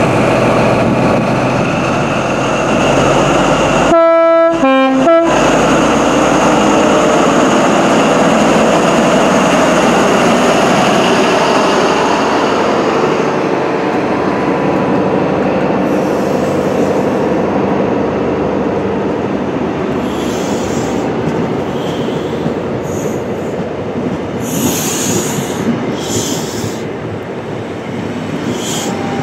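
HST (Class 43) train at a station platform: diesel running noise, broken about four seconds in by a short two-tone horn sounded as three quick notes. In the second half the wheels squeal several times as the coaches roll along the platform.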